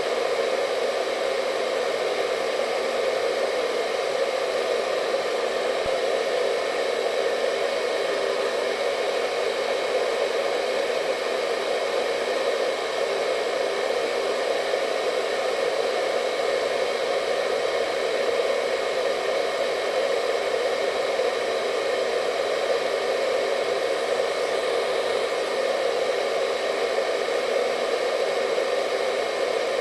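Hair dryer running steadily: an even, continuous rush of blowing air with a faint whine, unchanging in level.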